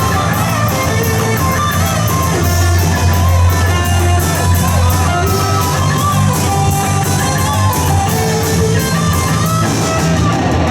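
Live rock band playing a passage without vocals: strummed electric guitar over bass guitar and a drum kit keeping a steady beat with regular cymbal strokes.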